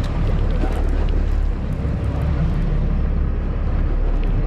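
Sportfishing boat's engine running with a steady low rumble.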